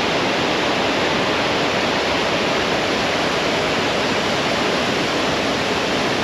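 Steady, loud rush of river water pouring over a low-head roller dam.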